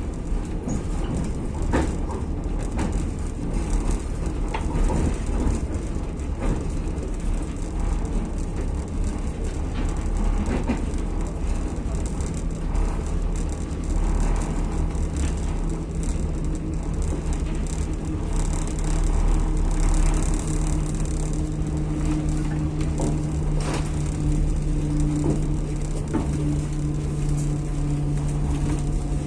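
Passenger train coach running on the rails, heard from inside the car: a steady rumble with scattered clicks and rattles. A steady low hum comes in about halfway through and stays.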